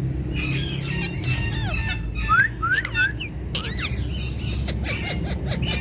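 Ringneck parrots chirping and squawking: a busy string of short whistled calls that slide up and down in pitch, with harsher squawks mixed in, loudest about two and a half seconds in, over a steady low hum.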